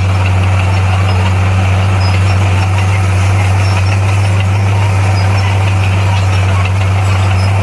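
Diesel engine of heavy earthmoving equipment running steadily with a strong low hum, its level unchanging.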